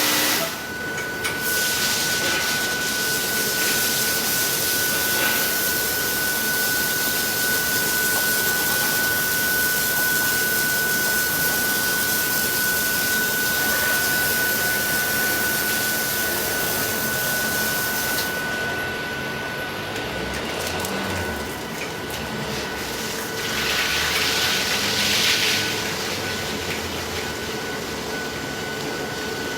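Car wash equipment running: a steady hiss of spraying water over a machine hum with a thin steady whine. The hiss thins about two-thirds of the way through, then surges louder for a moment near the end.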